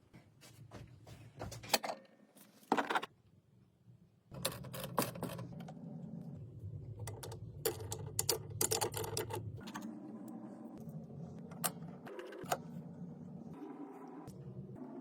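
Workshop tool sounds: a few sharp separate clicks and taps, then from about four seconds in a steady low machine hum with frequent clicking over it.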